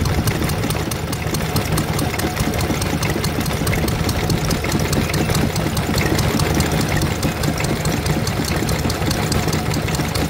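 Stationary engine running steadily with a fast, even beat of firing strokes.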